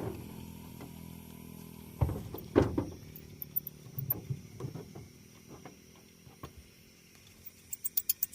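Repair work on a truck: a steady hum stops about two seconds in, then two loud knocks and scattered smaller clicks and knocks follow. A quick run of sharp ticks comes near the end.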